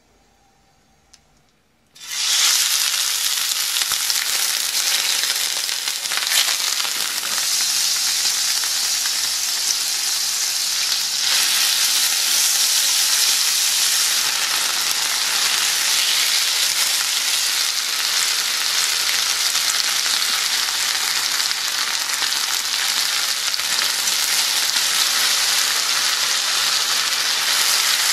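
Very quiet for about two seconds, then beef small intestine pieces hit hot sesame oil in an iron frying pan and sizzle loudly and steadily as they are stir-fried.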